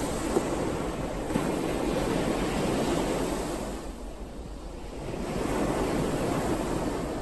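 Ocean waves breaking and washing in: one wave surges at the start and draws back, then a second washes in about five and a half seconds in.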